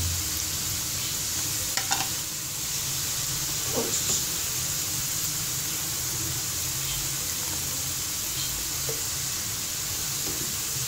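Bitter gourd pieces sizzling steadily in hot oil in a nonstick frying pan, stirred with a slotted metal spoon that clinks against the pan about two seconds in and again about four seconds in.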